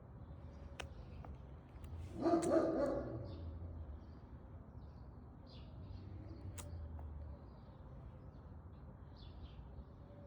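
A single animal call lasting about a second, starting about two seconds in, over faint bird chirps and a few sharp ticks.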